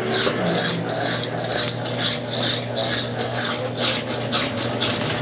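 Top-loading washing machine agitating in its wash stage: an agitator swishes water and clothes back and forth in a rhythmic slosh a few times a second over a steady motor hum.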